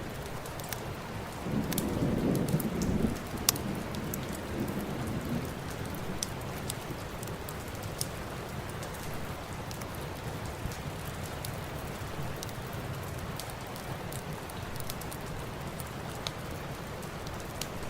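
Steady rain falling, with a low rumble of thunder swelling and fading about two seconds in, and scattered sharp ticks throughout.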